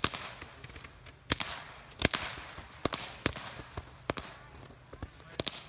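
Consumer fireworks bursting at ground level: about seven sharp bangs at uneven gaps of roughly a second, each followed by a short trailing hiss.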